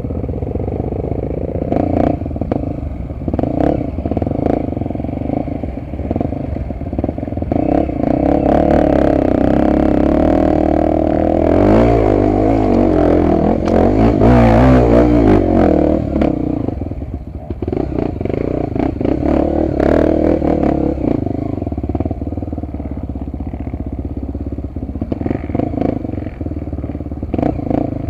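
Honda XR250 Tornado's single-cylinder four-stroke engine being ridden over rough ground, revving harder and louder from about a third of the way in, then easing off. Scattered clattering knocks.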